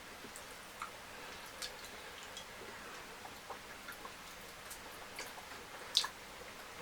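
Close-miked eating sounds of fufu and fish curry: scattered small wet clicks and smacks, with one sharper, louder click about six seconds in.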